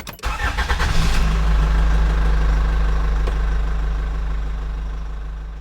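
A vehicle engine starts and settles into a steady, low idle, which slowly fades away toward the end.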